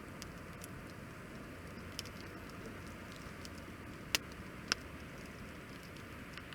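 Wood fire burning with a steady low hiss and scattered small crackles, and two sharp loud pops, one just after four seconds and another about half a second later.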